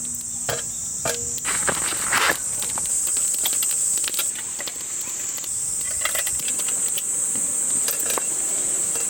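Insects chirring in a steady, high, unbroken drone, with scattered light clicks and knocks over it.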